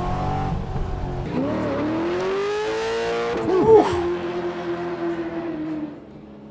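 Custom American muscle car's engine accelerating hard, its pitch climbing steadily for a couple of seconds, with a brief loud peak about three and a half seconds in. It then holds a steady, slowly falling drone that drops away near the end.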